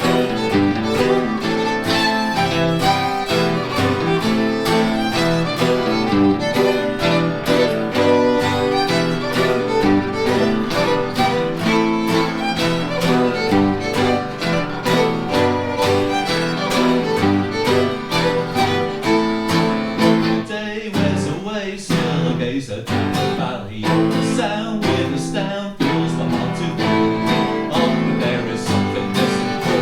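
Fiddle playing a brisk Scottish/Cape Breton tune over electric guitar accompaniment.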